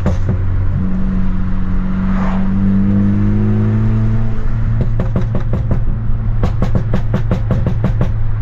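Straight-piped, tuned BMW F30 328i's turbocharged four-cylinder engine and exhaust under a hard pull, its pitch rising steadily for about four seconds. Then comes a rapid run of sharp pops and crackles from the exhaust.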